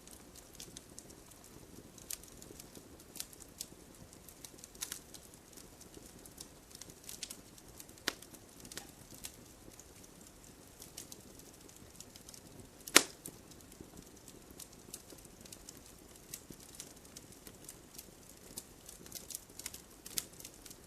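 Wood fire burning in a fireplace, crackling with irregular small pops over a soft low rush of flames. There is a sharper pop about eight seconds in and a loud snap about thirteen seconds in.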